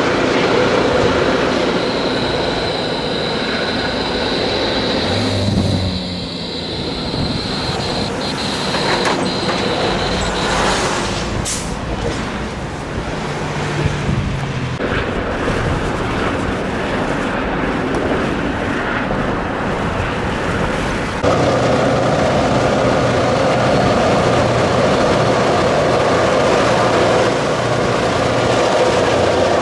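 Road and engine noise inside a moving car for most of the stretch. About two-thirds of the way through it cuts abruptly to a louder, steady sound: an Iowa Interstate diesel freight locomotive passing close by at a grade crossing, its engine running and wheels rolling on the rails.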